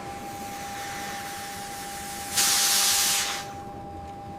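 A loud burst of hissing spray lasting about a second, starting about two and a half seconds in, over a steady fainter hiss and a thin steady high hum.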